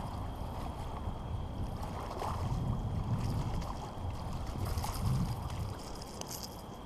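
Low rumbling water and wind noise on the microphone, with a few faint clicks and rattles near the end.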